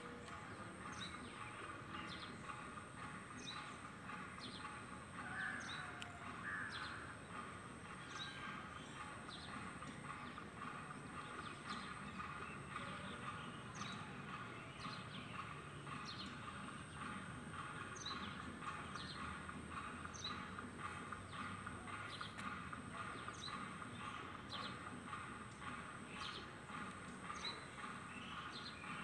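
Backyard birdsong: a bird repeats a short, high, falling chirp about once a second over a steady background of outdoor ambience, with a thin steady high tone.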